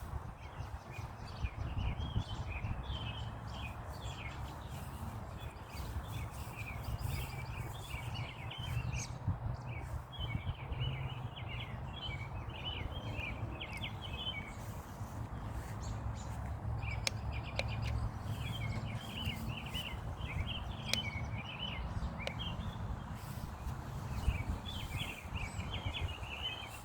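Small birds chirping busily and continuously, over a low rumble.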